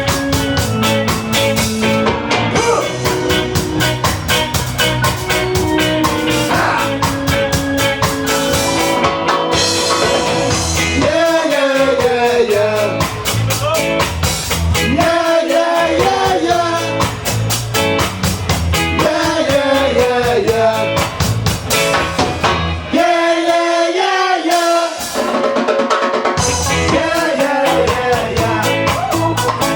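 Live ska band playing: drum kit, bass and guitar, with a lead vocal singing over them from about a third of the way in. The bass and drums drop out for about two seconds near three-quarters of the way through, leaving the voice and upper instruments.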